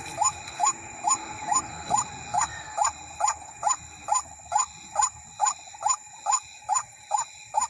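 White-breasted waterhen calling its repeated 'wak-wak' note, about two rising notes a second at a steady, even pace.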